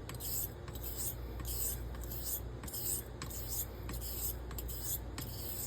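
Carbon steel straight razor, its spine taped, honed in half strokes on a 1200-grit Pyrenees bevel-setting stone: a rasping scrape back and forth, about two strokes a second, as the bevel is being set.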